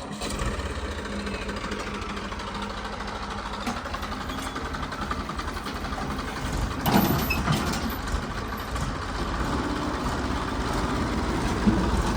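Tractor diesel engine running steadily, with a louder knock about seven seconds in and another near the end.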